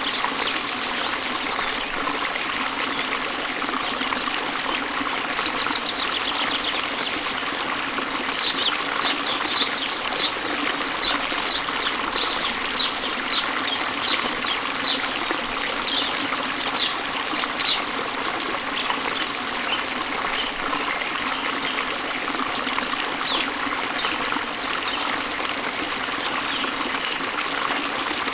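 Steady rush of a waterfall's falling water. A bird chirps about twice a second through the middle stretch, with a few single chirps later on.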